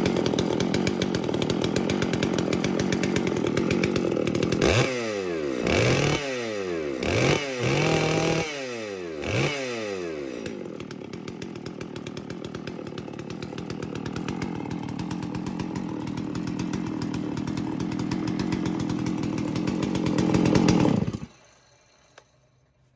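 Freshly assembled Farmertec 92cc two-stroke chainsaw, a clone of the Stihl MS660, running steadily. From about five to ten seconds in it is blipped up and down in speed about five times, then runs on, slowly growing louder, and is shut off suddenly near the end.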